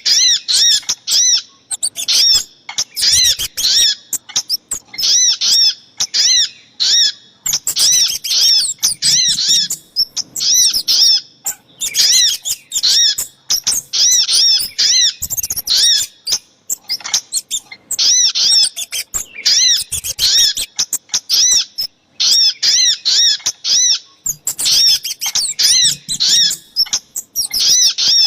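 Bird-lure recording of sogok ontong (little spiderhunter) and kemade calls: quick bouts of sharp, arching high notes, four to six to a bout, repeated over and over with short gaps.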